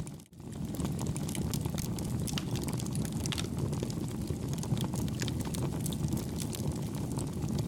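Campfire burning with a steady low rumble and many small crackles and pops. The sound drops out briefly just after the start, then runs on.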